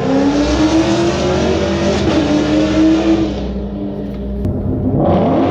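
Ford Mustang Shelby GT500's supercharged V8 revving, rising in pitch for about three seconds, dropping off, then picking up again near the end.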